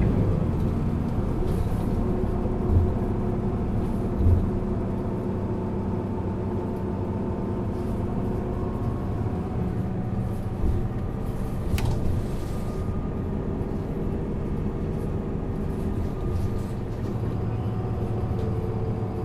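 Isuzu Erga LV290N1 bus's four-cylinder diesel engine running on the move, heard from inside the passenger cabin as a steady engine note. There are two short thumps a few seconds in, and a sharp click about twelve seconds in.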